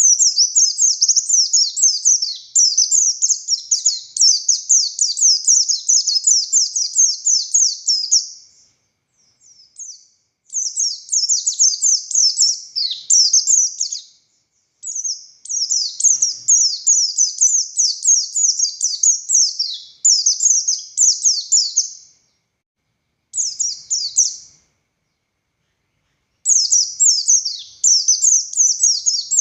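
Pleci buxtoni (white-eye) singing long phrases of rapid, high chattering and twittering notes. The song is broken by several short pauses.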